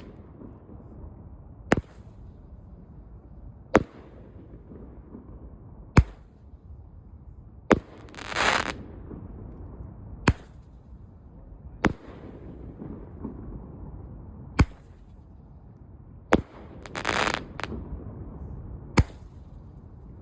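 An 8-shot 1.2-inch roman candle firing, with a sharp report every two seconds or so. Twice, around 8 s and 17 s, a longer hissing burst of nearly a second comes through.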